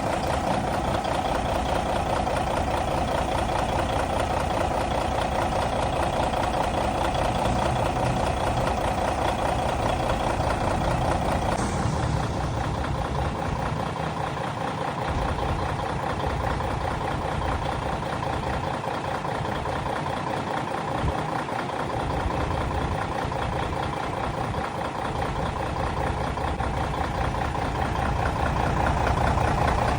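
Scania K112 bus's 11-litre six-cylinder diesel engine running with a steady, deep rumble. About 12 s in there is a short click and the tone shifts lower, and it grows a little louder near the end.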